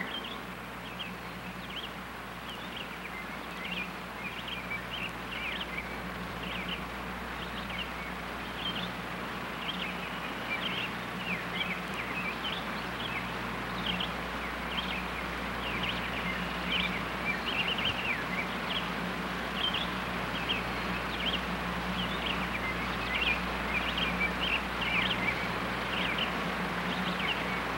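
Birds chirping: many short high calls scattered irregularly throughout, over a steady low hum.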